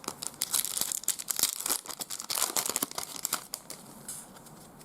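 Trading-card pack wrapper being crinkled and torn open, a dense crackling that lasts about three and a half seconds and then dies down.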